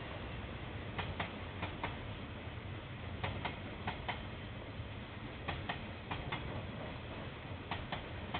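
Train wheels clicking over rail joints as a KiwiRail train passes, the clicks coming in close pairs as each bogie's two axles cross, over a steady low rumble.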